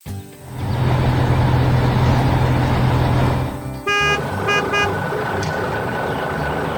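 Heavy vehicle engine running loudly and steadily, with three short horn toots about four seconds in.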